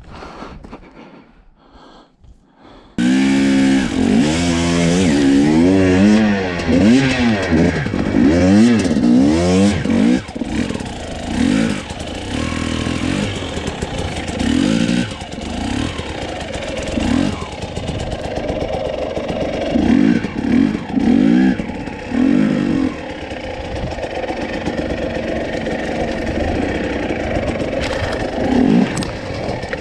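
Husqvarna TE250i two-stroke enduro engine comes in suddenly about three seconds in and is revved hard several times in quick succession. It then settles to a steadier running note, blipped up and down with short throttle revs every second or two.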